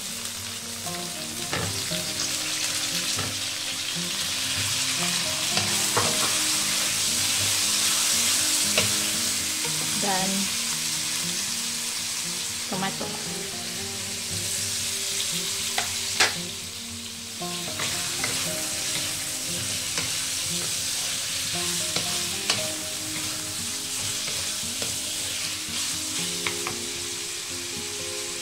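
Eggplant, onion and green chilli frying in hot oil in a steel wok, sizzling steadily as they are stirred, with several sharp knocks scattered through.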